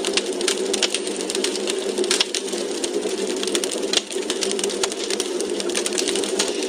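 Wood fire crackling in a fireplace: dense, irregular snaps and pops from the burning logs over a steady low hiss.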